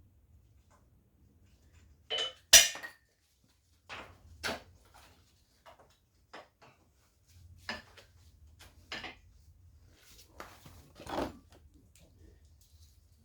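Scattered metallic clinks and clanks of tools and engine parts being handled while stripping down a Nissan RB20DET, about eight in all, the loudest a sharp clank about two and a half seconds in.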